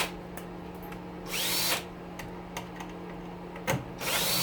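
Cordless drill spinning out screws in short bursts, twice, each run's whine rising and then falling as the trigger is squeezed and let go, with a click between them. A steady low hum runs under it.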